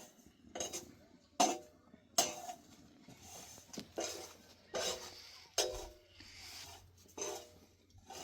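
A metal utensil knocking and scraping against a metal cooking pot, about a dozen clinks at uneven intervals, several leaving a short metallic ring.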